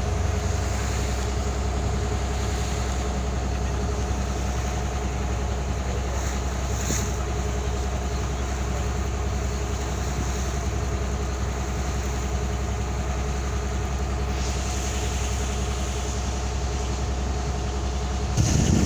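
Boat engine running steadily, a low hum with a few steady tones above it. A short louder burst comes right at the end.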